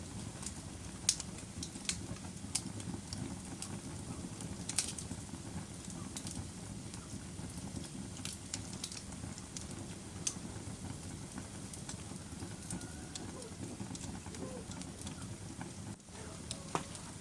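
Wood fire burning in a fireplace: a steady low rumble of flames with irregular sharp crackles and pops scattered through it.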